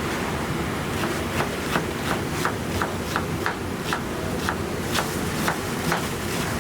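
Knife chopping on a cutting board in an even rhythm, about two to three strikes a second, over a steady low kitchen hum.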